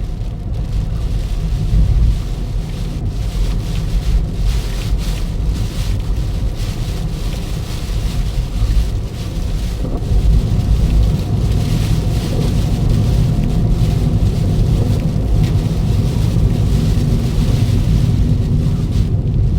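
Steady low rumble of a Toyota Ractis driving, with a hiss of rain and wind that swells and fades.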